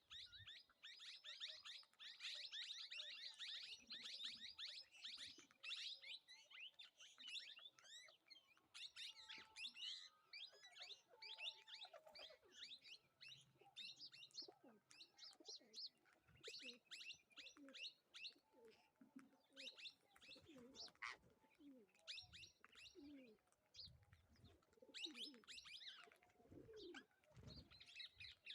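Several birds chirping busily, many short overlapping chirps, joined in the second half by lower cooing calls.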